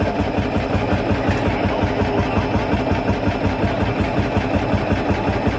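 Lanz Bulldog tractor's single-cylinder two-stroke hot-bulb engine running steadily, each firing stroke heard in an even, rapid beat of about ten a second.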